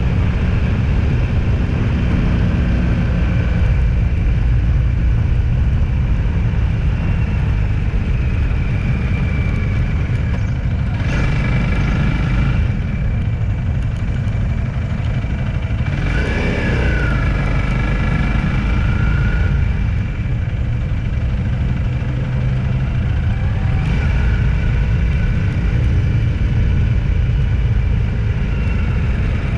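Vehicle on the move: a steady, loud low rumble of engine and road noise, with faint higher whines coming and going around the middle.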